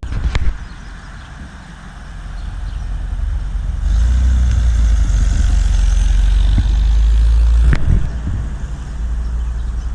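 A car's engine rumble growing louder over a few seconds as it passes close by, then dropping off sharply about eight seconds in.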